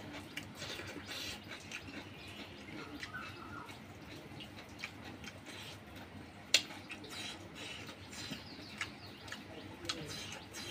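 Wet mouth sounds of a person eating fried pork and rice by hand: chewing and lip-smacking as a string of small wet clicks, with one sharper click about six and a half seconds in.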